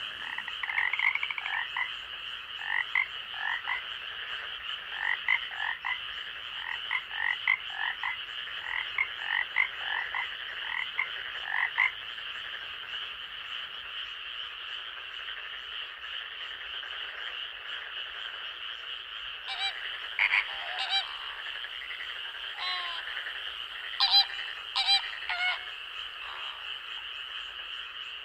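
Night-time forest chorus of frogs: short calls repeated one after another for the first twelve seconds or so, then a few scattered louder calls later, all over a steady high-pitched hum.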